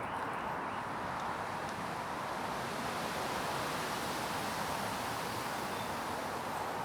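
Wind and rain through the woodland trees: a steady, even rushing hiss that holds the same level throughout.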